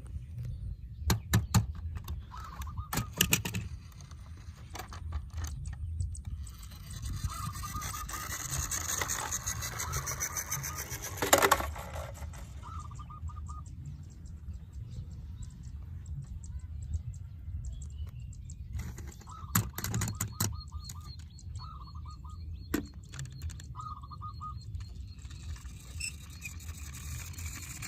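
Small diecast toy vehicles being handled, with clusters of metallic clicks and rattles and a stretch of scraping. Short honk-like tones recur every few seconds.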